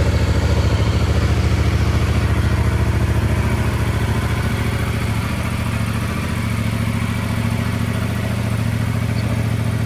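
Yamaha MT-07's 689 cc parallel-twin engine idling steadily, freshly started, easing slightly lower about six seconds in.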